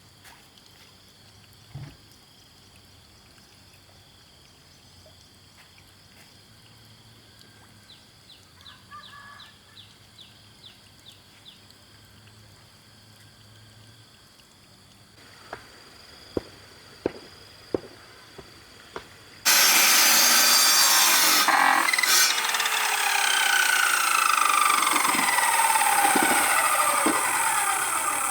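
A few sharp knocks on wood, then a saw cutting through bamboo, starting abruptly and running loudly and continuously to the end.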